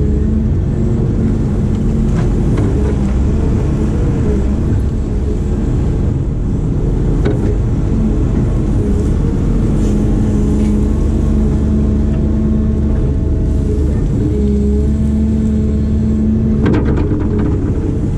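Diesel engine of a heavy digging machine running under load, with steady tones that come and go and shift in pitch as the hydraulics work. A few sharp knocks near the end.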